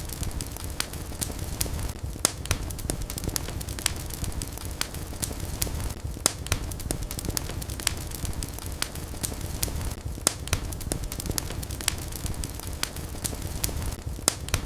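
Fire burning in a fireplace: a steady low rumble of flames with frequent sharp crackles and pops at irregular intervals, several a second.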